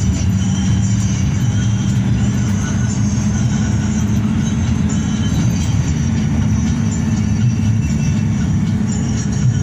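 Hino RK8 bus heard from inside the cabin while underway: a steady low drone of engine and road noise.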